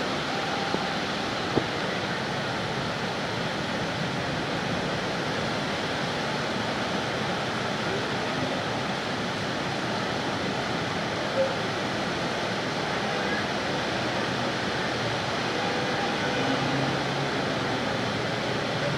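Very heavy rain pouring down: a steady, even hiss with a few brief ticks.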